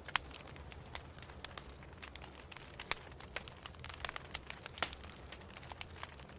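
Wood fire in a fireplace crackling: irregular sharp pops and snaps, one of the strongest just after the start, over a low steady rumble.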